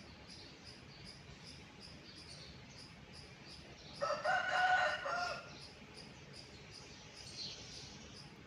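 A single pitched bird call, about a second and a half long, about four seconds in, over a steady high insect chirping about three times a second.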